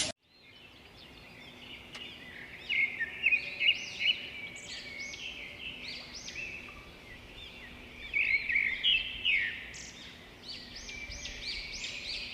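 Caged small birds chirping together: a dense chorus of short, high calls overlapping one another, loudest in clusters a few seconds in and again past the middle.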